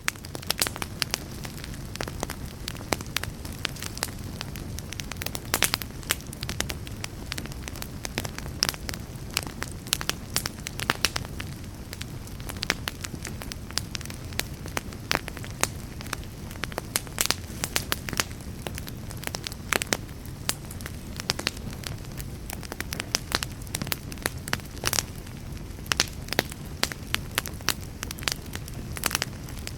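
Wood fire burning, with sharp crackles and pops at irregular intervals over a steady low rumble of flame.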